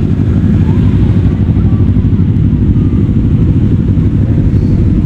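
Motorcycle riding along at a steady pace: a loud, steady low rumble.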